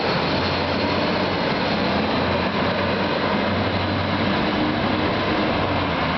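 Fire truck under way: steady engine drone and road noise, even throughout.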